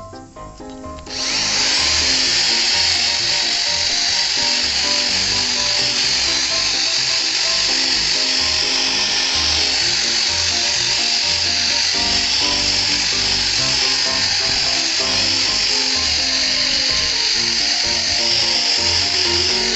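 A loud, steady hiss from a workshop tool starts about a second in and runs on unbroken over background music.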